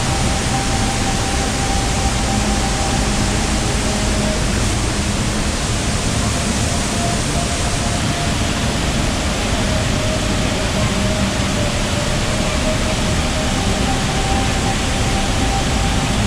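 Waterfall plunging close by: a loud, steady, unbroken rush of falling water.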